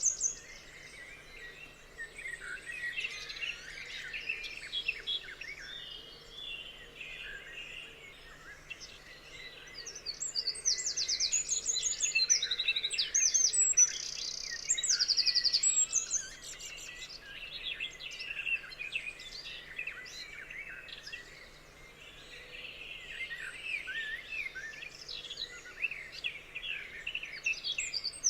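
A chorus of forest songbirds singing and calling over one another, a dense mix of chirps, whistles and quick trills, loudest in the middle, where rapid trilled phrases repeat.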